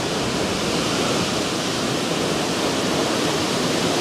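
Hurricane wind blowing hard, a steady rushing noise with no let-up.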